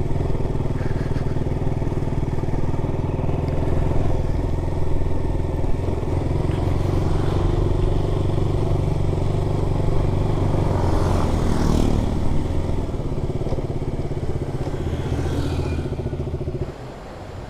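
KTM Duke 200's single-cylinder engine running steadily as the motorcycle is ridden, with a brief rising whoosh about eleven seconds in. The engine sound cuts off abruptly about a second before the end.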